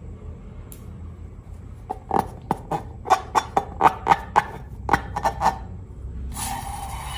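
Slime being pressed and worked by hand: a quick run of about a dozen short, sticky pops and clicks over about three seconds, then a steadier squishing rustle near the end.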